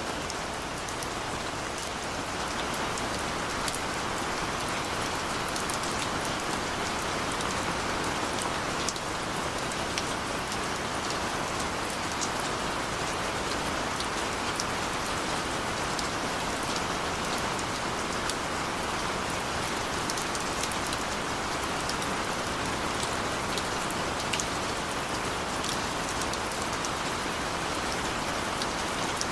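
Steady rain falling on a surface, an even hiss with many small drop ticks. No thunder is heard.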